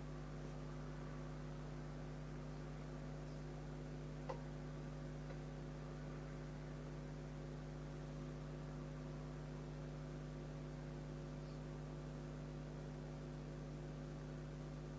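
A steady low electrical hum, with one faint click about four seconds in.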